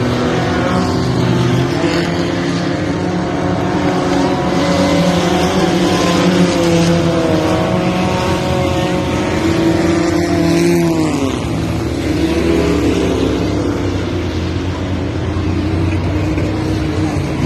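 Car engines running hard in a race on an oval track, several engine notes overlapping and rising and falling in pitch as the cars accelerate and lift. About ten seconds in, one engine's note drops sharply and then climbs again.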